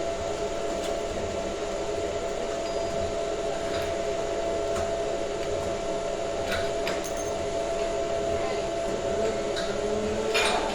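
A steady mechanical hum with a few light, sharp metallic clicks and taps over it, and a louder click near the end.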